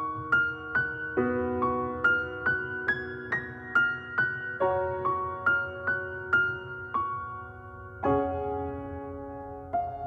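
Solo piano playing a slow, gentle melody of single notes, about two to three a second, over a sustained low pad.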